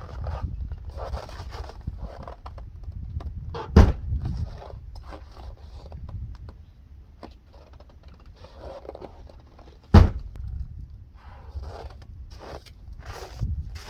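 Two loud thumps, about four seconds in and again near ten seconds, among scattered scuffing and crunching noises.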